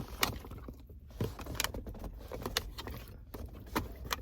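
Scattered sharp clicks and light taps, a few a second and unevenly spaced, from handling things inside a car, over a low steady rumble.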